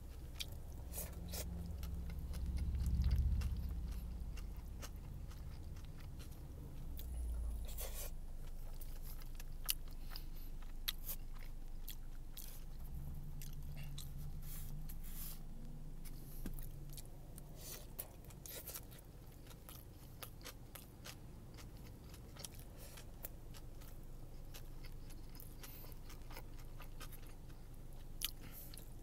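Close-up chewing and biting of shredded kalua pork with cabbage and rice, with scattered crunches and clicks, and the plastic fork scraping and tapping in a foam takeout box. A low rumble swells in the first few seconds, loudest about three seconds in.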